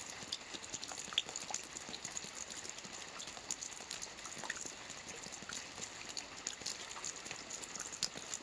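Soft rain falling on a roof: a steady patter of many small drops, with a slightly sharper drop about a second in.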